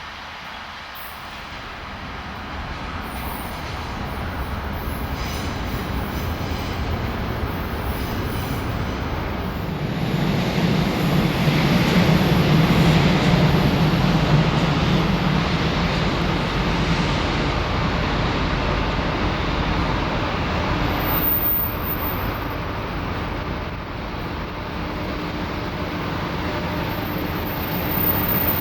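A freight train hauled by a Taiwan Railways R200-series diesel-electric locomotive approaches and passes. It grows steadily louder to its loudest about ten to fifteen seconds in, then goes on as a steady rumble of the loaded wagons rolling by.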